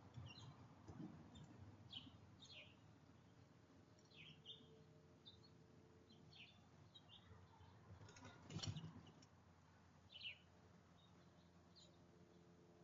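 Faint small songbirds chirping: short, falling chirps every second or so. A brief louder knock with a rustle about eight and a half seconds in, the loudest thing heard.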